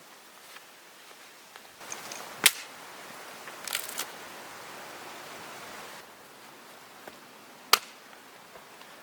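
Two sharp cracks about five seconds apart, with a few softer snaps and rustling between them.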